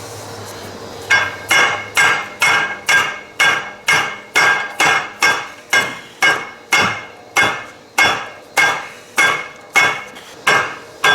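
Hammer striking metal in a steady series of blows, about two a second, starting about a second in; each blow rings with a metallic tone.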